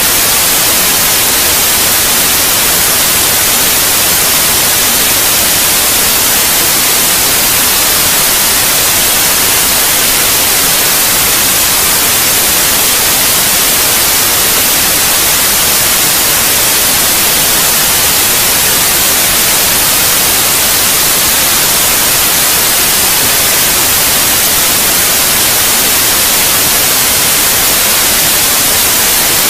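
Steady, loud white noise: an even, unbroken hiss, brightest in the treble, with no change in level.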